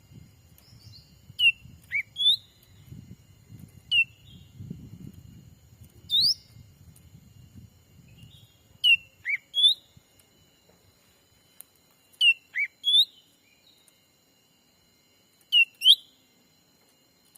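Cucak ranting calls: groups of two or three short, quick slurred notes, some sweeping down and some up, repeated about every three seconds. A faint low rumble runs under the first half.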